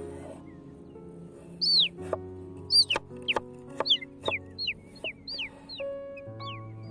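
A bird calling over and over with short, high chirps that fall in pitch, about a dozen starting a second and a half in, the first ones loudest. A cleaver chops cucumber and tomato on a wooden board in sharp knocks, over background music.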